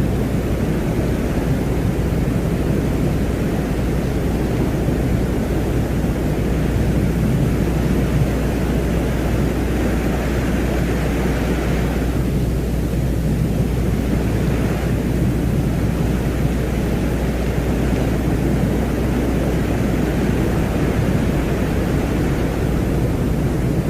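Steady low rumbling drone of noise, a space-ambience soundscape billed as the sound of Venus, with a low hum beneath and a fainter hiss above that dips briefly about halfway.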